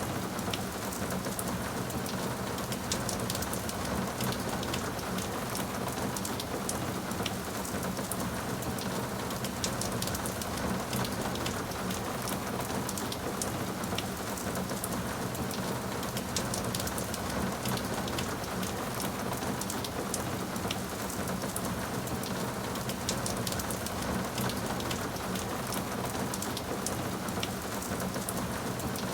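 Steady rain falling on a surface, an even hiss with many fine scattered drop ticks.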